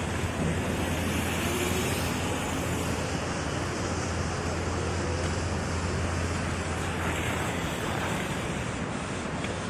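Wind rushing over the microphone on a moving motocross bike, with the small engine's steady drone underneath and a few faint rises in pitch as it revs.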